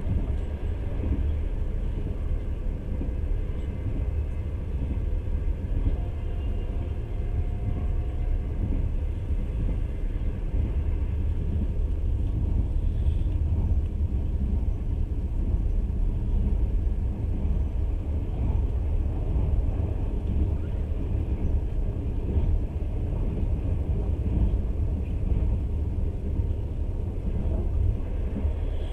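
Passenger train running: the steady low rumble of the carriage and its wheels on the rails.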